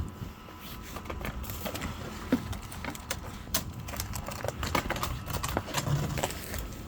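Footsteps crunching through icy, crusted snow, a run of irregular crunches and crackles.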